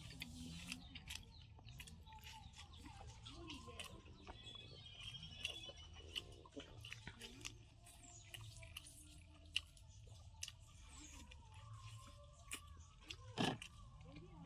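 Faint chewing and mouth sounds of people eating rice, biryani and curry, with scattered small clicks and a sharper smack about 13 seconds in.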